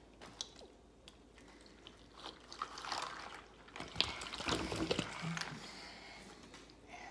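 Milk being poured into a bowl of cereal, the splashing pour growing in the middle and easing off, with a sharp knock partway through.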